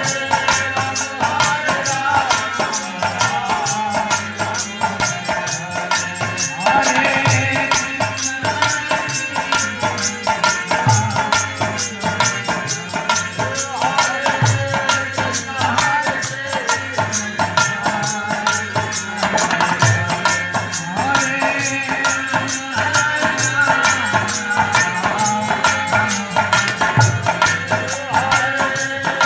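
Hari kirtan devotional music played live, a fast, even rhythm of rattling hand percussion carrying on without a break over melodic instruments and drums.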